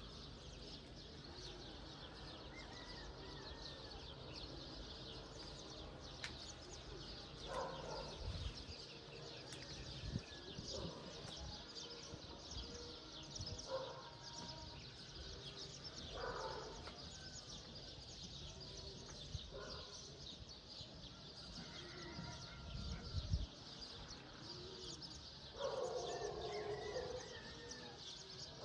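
Outdoor dawn bird chorus: a dense, steady chatter of many small birds chirping, with louder, lower calls every couple of seconds and a longer call near the end.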